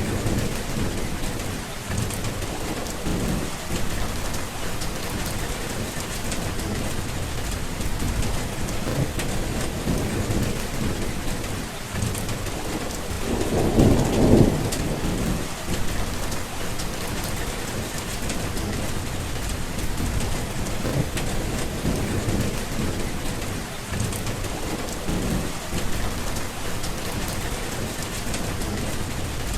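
Steady rain falling, with rolling thunder rumbling low in the background; the loudest roll of thunder swells and fades about halfway through.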